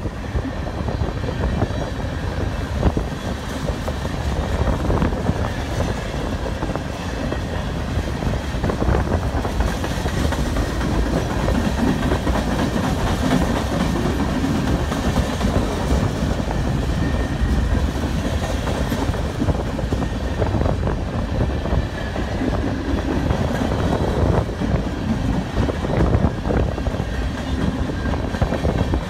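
Freight cars of a mixed freight train rolling past close by: a steady rumble of steel wheels on the rails with frequent clacking over the rail joints.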